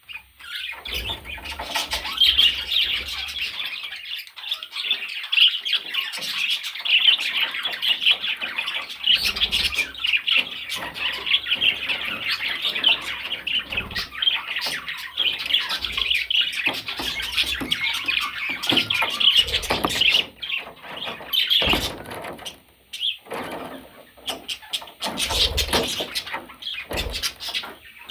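Budgerigar chattering and warbling non-stop in a dense stream of chirps and squawks, with a couple of short pauses near the end.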